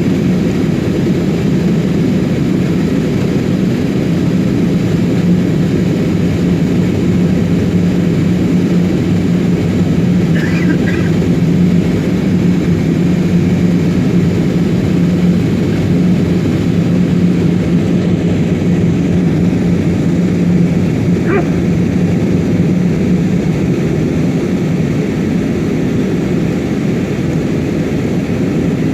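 Steady cabin noise of an Airbus A320 airliner descending to land: the even drone of its jet engines and rushing airflow, with a constant low hum.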